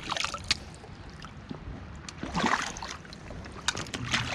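Shallow seawater splashing and sloshing in three separate bursts, over a steady low rumble.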